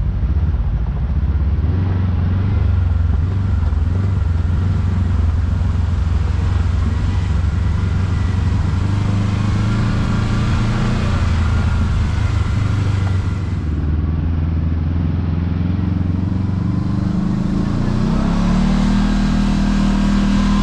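Kawasaki KRX side-by-side's parallel-twin engine running steadily while driving, heard on board; its note climbs near the end as it speeds up.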